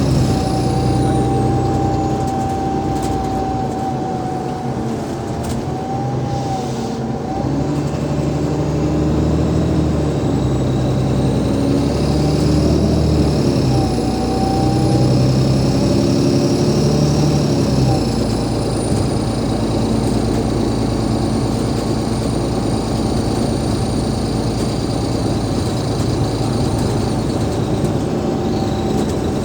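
Cummins ISL8.9 diesel engine of an Alexander Dennis Enviro500 MMC double-decker bus running under way, heard from on board, its note shifting a few times. A thin steady whine sits over it.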